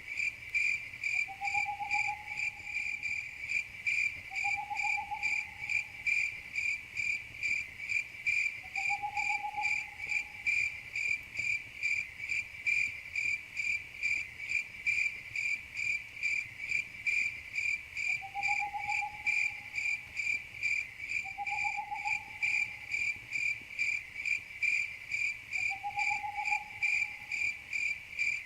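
Crickets chirping in a steady, even rhythm, about two chirps a second. A fainter, lower short call sounds six times.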